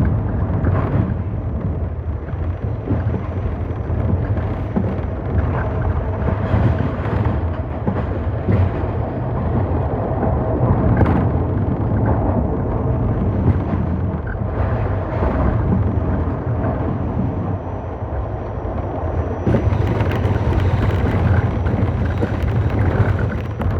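R68 New York City subway car running through a tunnel: a steady low rumble with a constant hum and scattered clacks of wheels over rail joints. About two-thirds of the way in, a louder, hissing rush comes in for a few seconds.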